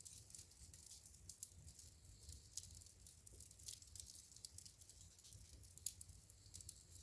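Wood fire crackling in a fireplace: faint, irregular snaps and ticks over a low rumble, with a few sharper pops about a second and a half in, again near two and a half seconds, and near six seconds.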